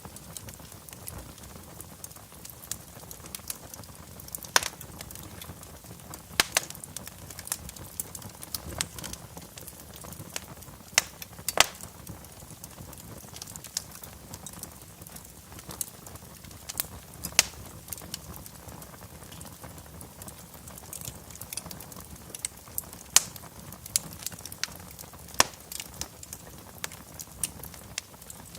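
Wood fire crackling in a fireplace: irregular sharp pops and snaps over a low steady hiss.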